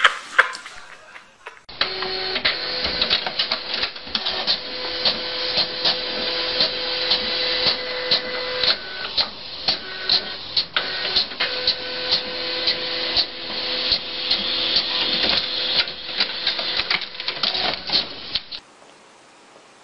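A small machine running with a steady hum and many sharp clicks and ticks, which starts about two seconds in and cuts off suddenly near the end.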